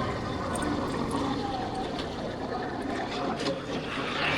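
Yamaha Factor 150 motorcycle's single-cylinder engine running steadily, mixed with wind and road noise.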